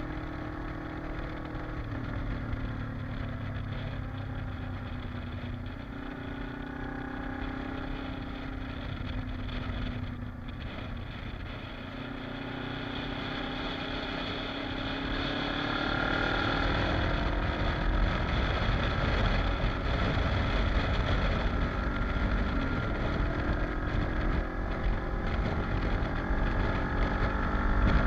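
Kawasaki KLE motorcycle engine under way, its pitch rising and falling with the throttle. From about halfway through it gets louder and wind buffets the microphone.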